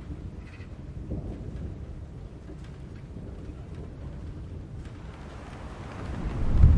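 Thunderstorm: a steady low rumble of thunder, swelling into a loud roll of thunder near the end.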